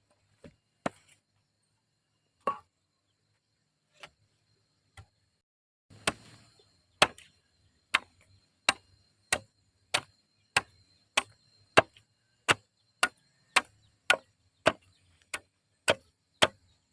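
Wood being chopped with a blade: a few scattered strokes, then from about six seconds in a steady run of strokes, a little under two a second.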